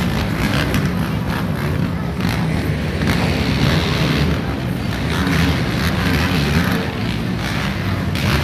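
Motocross dirt bikes' engines running and revving, a continuous loud engine noise that rises and falls in pitch.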